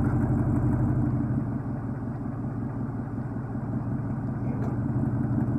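Truck engine running steadily, an even low hum with no revving.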